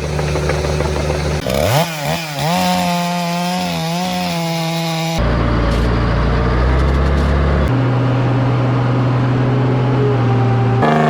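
Engines of logging machinery running and revving. The sound changes abruptly several times, as between cut clips, with a rising rev about two seconds in.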